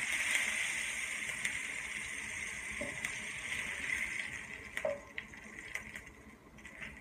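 Chapli kabab patty sizzling in hot oil in a cast-iron skillet, a steady frying hiss that slowly fades, with a few light clicks of a metal spatula against the pan as the patty is lifted and turned.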